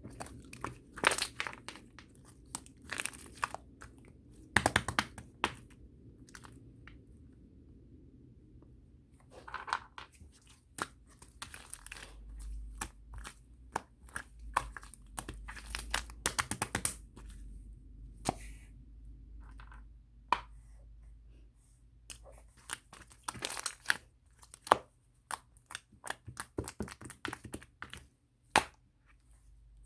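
Close, irregular crunching and crackling: sharp clicks and crinkles in uneven clusters, with a low rumble underneath in the middle stretch.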